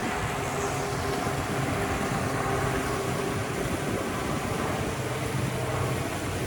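Steady low hum of a large boat's engine idling, over a constant wash of background noise.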